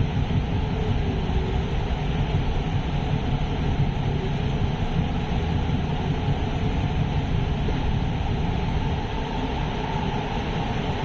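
Steady rumble and hiss of a light-rail train running along an elevated track, heard from inside the car.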